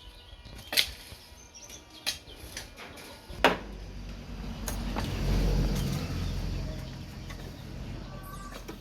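Four sharp knocks, roughly a second apart, then a low rumble that swells and fades over a few seconds, with faint bird chirps.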